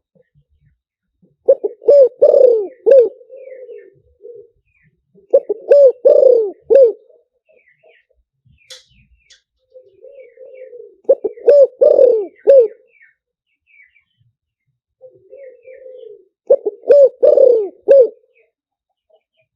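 Spotted dove cooing: four loud phrases of a few coos each, with a softer burring coo before or after, repeated every four to six seconds. It is a decoy call used to lure wild doves to a trap.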